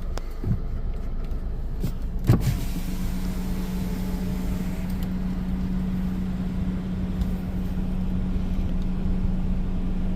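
Car engine and road rumble heard from inside the cabin as the car creeps forward slowly. There is a sharp knock a little after two seconds, then a steady low hum.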